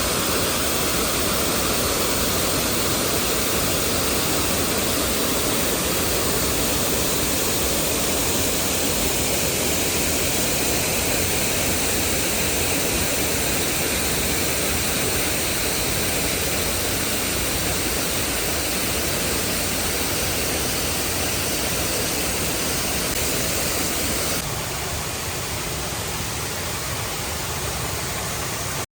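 Waterfall: a steady, loud rush of falling water. It turns a little quieter and thinner about 24 seconds in.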